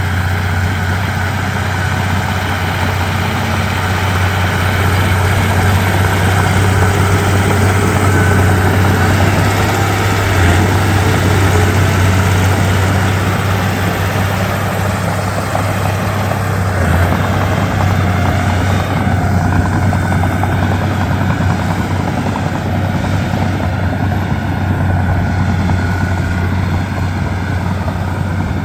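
Komatsu D31P bulldozer's diesel engine running steadily under work, a loud low drone with steady mechanical noise above it.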